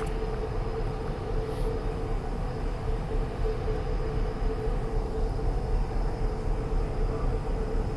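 Interior of a Hyundai Rotem electric multiple unit train running at steady speed: an even rumble of wheels on track with a steady hum.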